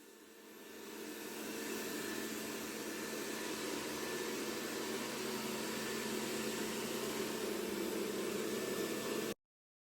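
Robot vacuum cleaner running with a steady mechanical hum. It swells over the first second and a half, holds steady, then cuts off abruptly near the end.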